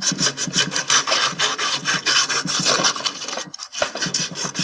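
Very fine sandpaper rubbed back and forth by hand over the bronze shaft sleeve of a washing machine drum, polishing it to a shine: quick rasping strokes, several a second, with a brief pause about three and a half seconds in.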